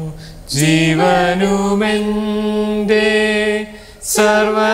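A voice singing a slow Malayalam worship song, holding long steady notes, with short breaks between phrases near the start and just before the end.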